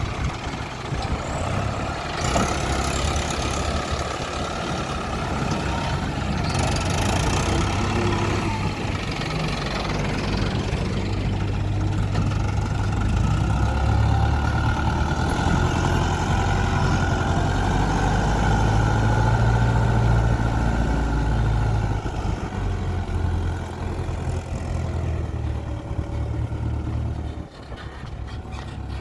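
Heavy diesel engines of an excavator and tractor working while mud is loaded, running steadily and getting louder under load in the middle. Brief hissing bursts come a couple of times early on.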